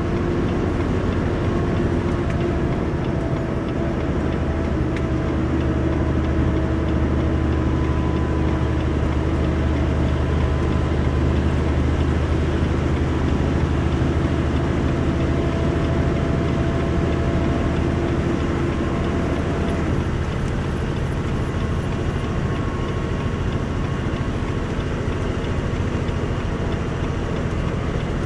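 Semi-truck diesel engine pulling steadily uphill under a heavy load in eighth gear, held at one engine speed; its tone shifts slightly about twenty seconds in.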